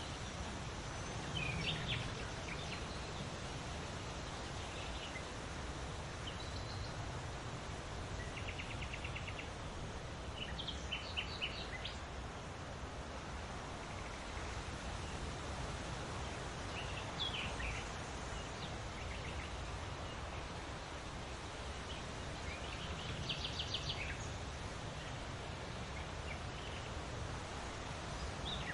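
Birds calling now and then over a steady rushing background noise. The birds give short chirps and a few quick trills of rapidly repeated notes, every few seconds.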